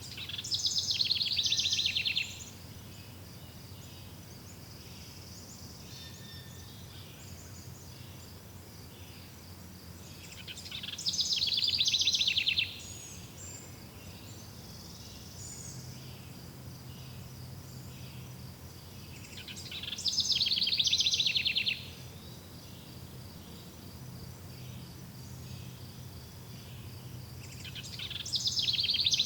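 A songbird sings the same short, fast-trilled song phrase four times, about every nine seconds. Under it runs a steady, faint high chirring of crickets.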